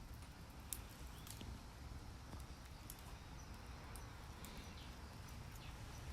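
Garden wood fire crackling with scattered sharp pops, one louder pop under a second in, over a steady low rumble.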